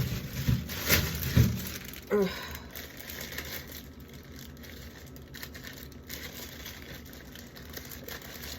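Food containers and packaging being handled: a few clunks and crinkling in the first second and a half, then quieter rustling.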